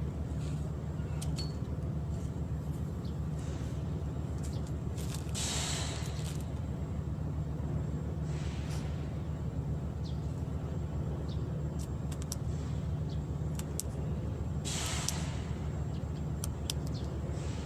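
A steady low engine hum, with two brief hissing washes about five and fifteen seconds in, and a few faint clicks.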